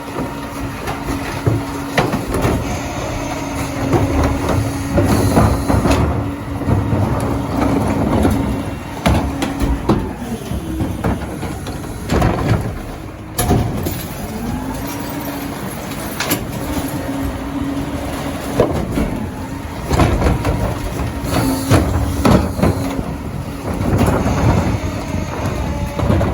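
Heil Dura-Pack rear-loader recycling truck running, its hydraulic packer whining on a steady pitch that drops out and slides back up twice near the middle. Repeated clanks and bangs of recyclables and carts being dumped into the hopper.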